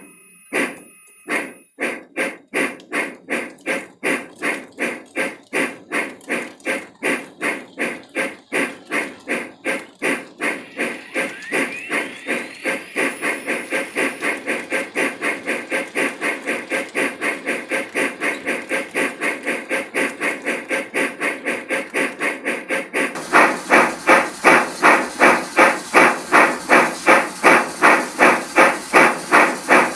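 Steam locomotive exhaust chuffing as the engine pulls away, the beats speeding up from slow to about three a second. A bell rings briefly at the start, and the chuffing gets louder about three quarters of the way through.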